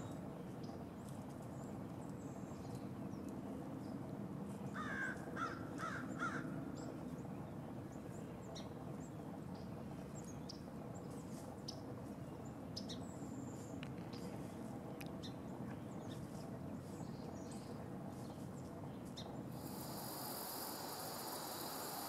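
Outdoor woodland ambience with faint scattered ticks and rustles of dry leaves as a brown thrasher forages in the leaf litter. About five seconds in, a bird calls about five times in quick succession; near the end a steady high-pitched hiss sets in.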